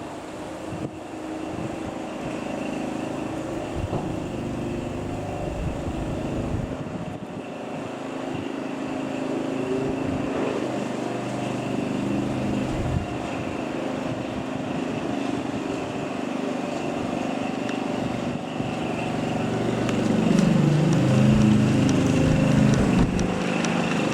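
Cessna 172M Skyhawk's four-cylinder Lycoming piston engine and propeller running, growing steadily louder as the aircraft nears. It is loudest about 20 seconds in, where the engine note wavers in pitch.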